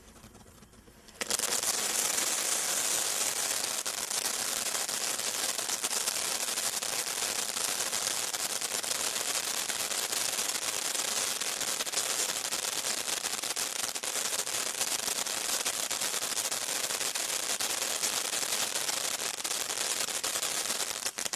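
Brothers Pyrotechnics 'Little John' fountain firework burning: it starts suddenly about a second in, then gives a steady, loud spraying hiss thick with rapid crackling pops.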